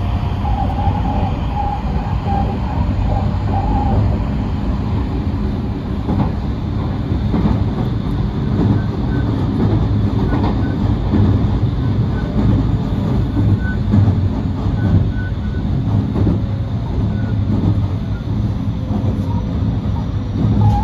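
Marine Liner electric train's running noise heard from inside the passenger car: a steady rumble of wheels on the rails as it heads onto the Seto Ohashi bridge, with a faint high whine in the first few seconds.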